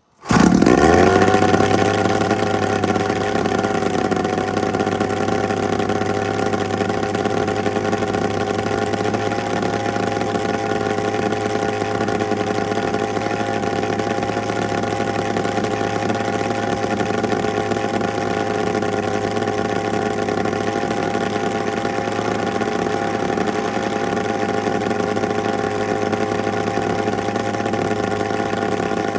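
A 400cc drone engine running. Its pitch rises quickly in the first second, then it holds a steady speed throughout.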